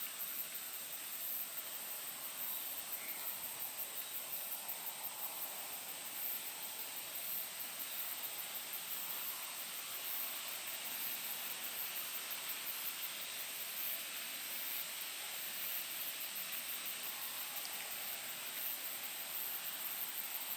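Insects chirring in a very high, fast-pulsing drone, over a steady hiss of poplar leaves rustling in the breeze.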